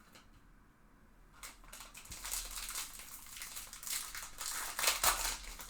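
A foil trading-card pack wrapper being torn open and crinkled, beginning about a second and a half in and loudest near the end.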